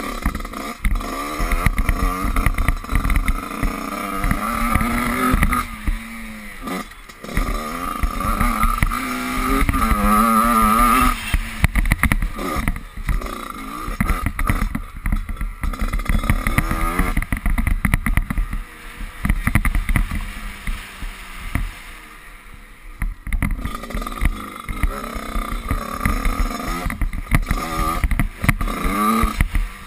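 Dirt bike engine heard onboard, revving up and dropping off again and again as the rider opens and closes the throttle around the track, with knocks from the bumps.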